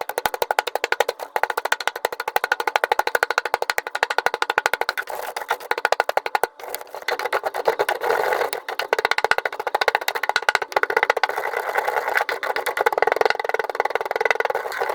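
Stone being knocked and crushed in a fast, continuous run of sharp blows, many a second, with brief breaks about six and eight seconds in.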